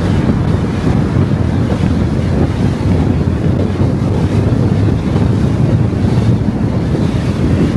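Steady, loud rumble of tyre and wind noise from a car driving along a road.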